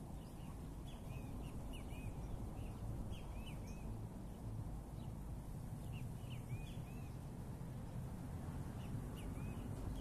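Small birds chirping from the trees: short, arching high notes, often in quick runs of two or three, repeating throughout over a low steady background rumble.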